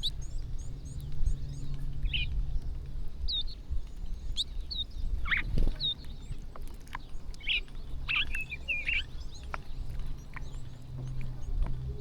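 A flock of small birds chirping in short, scattered calls, several overlapping at once, around feeding birds. A steady low rumble runs underneath.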